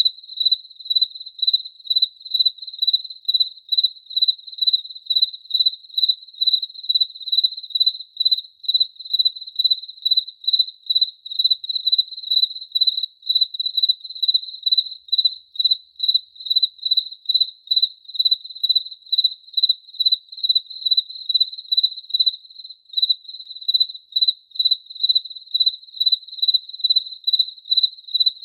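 A cricket chirping in an even, unbroken rhythm, about three chirps a second, each chirp on the same single high pitch.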